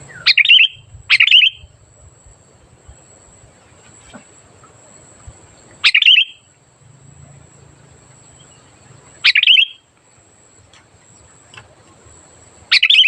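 Sooty-headed bulbul (kutilang) singing loud, short, bubbly phrases, five in all: two close together at the start, then one every three to four seconds.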